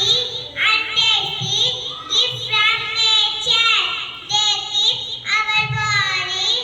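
Children singing in high voices, in short phrases of about a second each.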